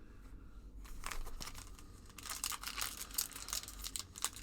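Wrapper of a 1990-91 SkyBox basketball card pack being torn open and crinkled by hand: scattered crackles starting about a second in, getting busier from about halfway.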